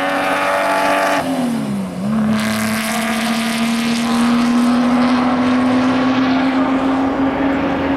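Engine of a 1960s sports-racing car running at high revs: about a second in its note drops in pitch, then climbs back up and holds a steady high note under load.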